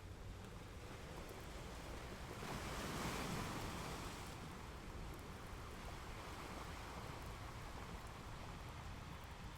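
Ocean waves washing onto a beach, a steady surf hiss with one wave swelling and breaking about three seconds in.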